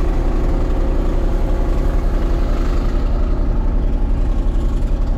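Engine running steadily at a low, even speed, with a low throbbing pulse.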